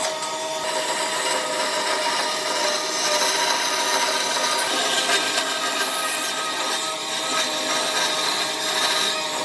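Power woodworking tool working wood: a steady scraping, rasping hiss over an even hum.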